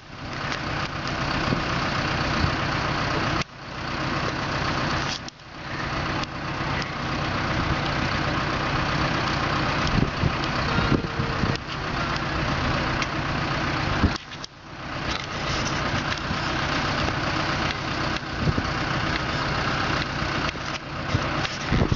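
Vehicle engines running steadily as a tractor tries to pull a truck stuck in a bog. The sound dips out briefly three times.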